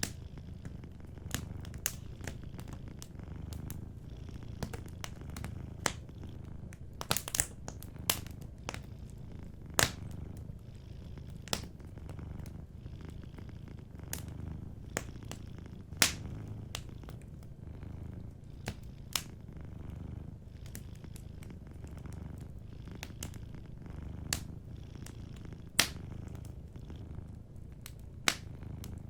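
Cat purring steadily in a low rumble, with a wood fire crackling over it in sharp, irregular snaps and a few louder pops.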